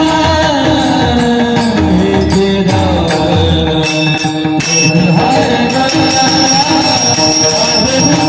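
Devotional abhang singing with pakhawaj accompaniment: a voice sings wavering held notes over deep pakhawaj drum strokes. About halfway through, a steady high ringing tone comes in.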